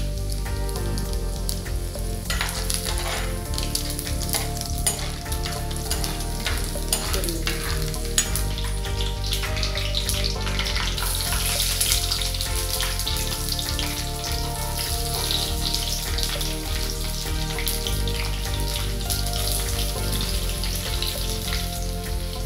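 Curry leaves and coconut pieces frying in oil in a black pot, sizzling steadily while a steel spoon stirs and knocks against the pot. The sizzle gets louder about halfway through.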